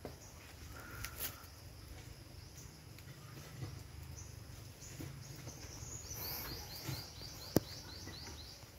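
Outdoor ambience with a low rumble of wind or handling noise. From about six seconds in, a bird gives a quick run of short, high, falling chirps, and a single sharp click sounds near the end.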